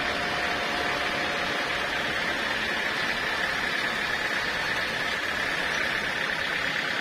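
Portable sawmill running: a steady mechanical noise with a constant high whine.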